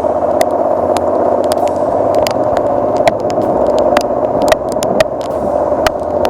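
Boat motor running steadily under way, with heavy rain striking the boat and microphone as many sharp, irregular ticks.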